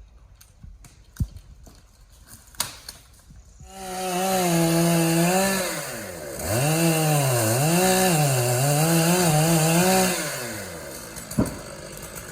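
Two-stroke chainsaw revving up to full throttle about three and a half seconds in. Its pitch dips and climbs back several times as it cuts, then it drops back to a quieter level near the end. Before it, a few scattered knocks and clicks.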